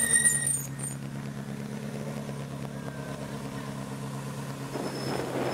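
Ferrari F40's twin-turbo V8 running steadily at low revs as the car rolls slowly past. A brief high squeal sounds at the very start, and near the end a louder, rougher swell of noise rises over the engine note.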